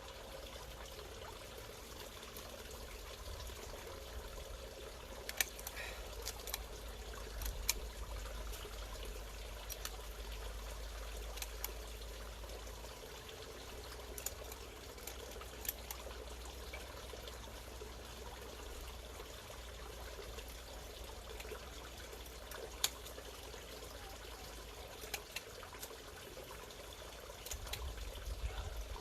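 Bubbling water trickling steadily, with a few sharp clicks scattered through it.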